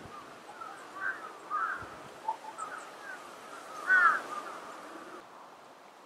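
Birds calling: a string of short chirping calls, the loudest about four seconds in, over a steady outdoor hiss.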